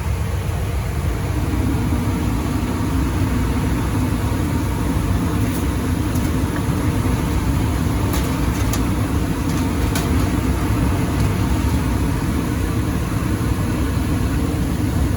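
Gas furnace running in heat mode, its blower and burners making a steady rumble and hum that grows fuller about a second in. A few light clicks come through partway, as the blower compartment cover is fitted back on.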